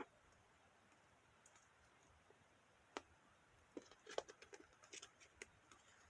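Near silence broken by faint scattered clicks and taps: a single click about three seconds in, then a loose run of small ticks coming more often toward the end.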